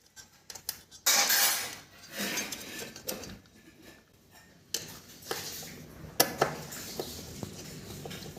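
Small hard parts of a washing machine being handled and fitted: irregular clattering and clinking with scraping and several sharp clicks.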